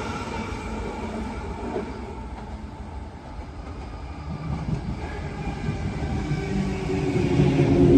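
Train running at a station: its sound fades through the first half, then a humming motor tone builds and grows louder over the last few seconds.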